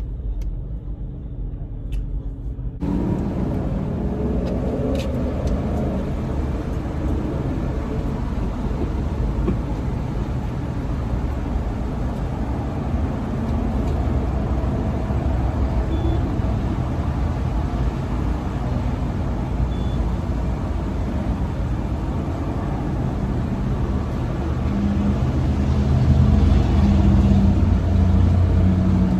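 Steady motor vehicle noise, a low rumble of engines and traffic that starts abruptly a few seconds in, with a deeper engine hum growing louder near the end.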